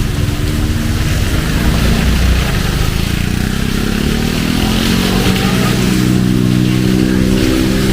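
Heavy rain falling steadily, with a motor vehicle's engine running close by, its pitch rising from about three seconds in and then holding.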